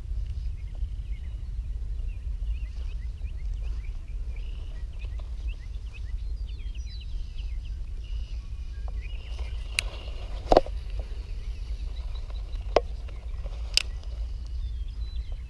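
Outdoor pond-side ambience: a steady low rumble with a run of quick high bird chirps over the first half, then three sharp clicks or taps in the second half.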